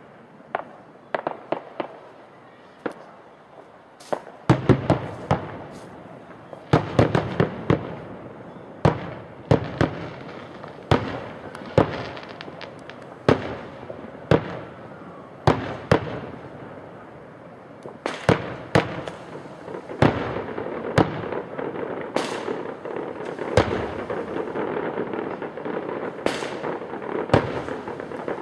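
Fireworks bursting in the sky: many sharp bangs at irregular intervals, at times several a second, each followed by a short echo. From about twenty seconds in, a thicker continuous noise runs beneath the bangs.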